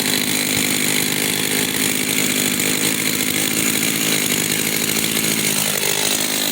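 Makita DCS520i two-stroke gas chainsaw running steadily and loudly.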